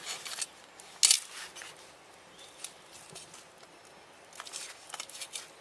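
Wood campfire crackling: scattered sharp pops and snaps, the loudest about a second in.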